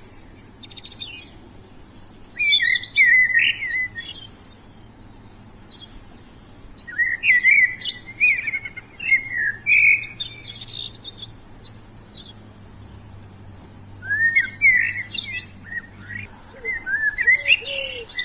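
Wild songbirds singing: bursts of quick, varied chirping and warbling phrases a couple of seconds long, separated by short pauses.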